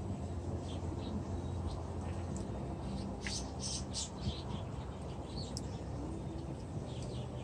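Small birds chirping, with a quick run of short high chirps about three to four seconds in and a few single chirps elsewhere, over a steady low hum.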